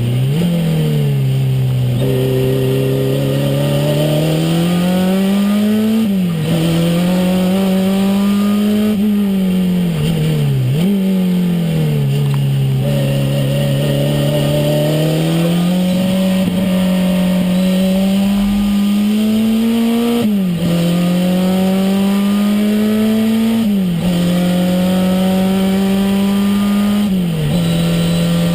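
Renault 5 Turbo's turbocharged four-cylinder engine heard from inside the car, pulling hard with its note climbing steadily. The note drops sharply at each gear change, about five times, and holds steady for a few seconds in between.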